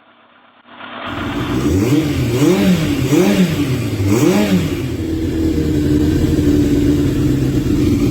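Yamaha FZR1000 EXUP's inline-four engine revved: it comes in about a second in, blips up and down three times in quick succession, then is held steady at raised revs.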